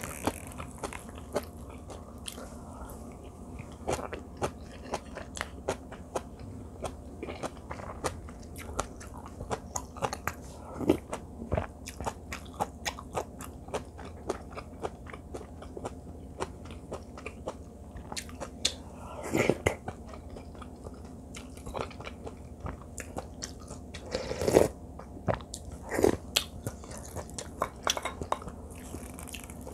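Close-miked chewing of rice with seasoned Korean greens (perilla-shoot and butterbur namul) and tofu doenjang stew: a run of wet mouth clicks and soft crunches, with a few louder, longer sounds about two-thirds of the way through and again near the end.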